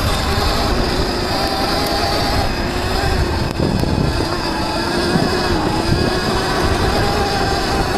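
Viper S electric dirt bike's motor whining steadily under way, its pitch shifting slightly with speed, over a low rumble from riding rough ground.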